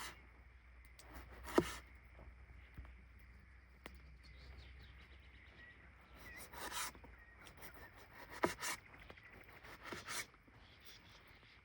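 Faint handling noises: a few scattered knocks and clicks with some rubbing and scraping.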